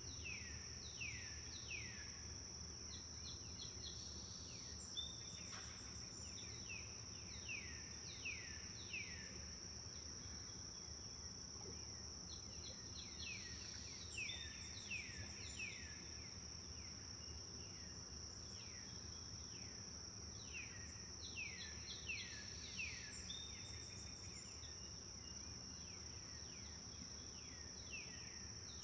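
Forest ambience: a steady high-pitched insect drone runs throughout, while a bird repeatedly sings short runs of quick, downward-sliding notes, each run three to six notes long and coming every few seconds. A steady low background noise lies under both.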